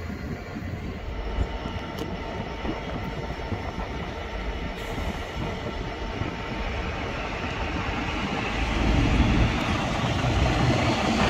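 A train approaching along the main line, the rumble of its wheels on the rails building steadily louder over the last few seconds, with a faint rising whine near the end.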